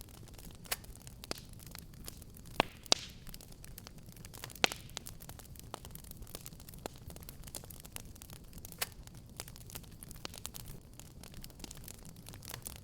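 Fireplace fire crackling: irregular sharp pops and snaps over a steady low rumble, with a few louder pops a few seconds in.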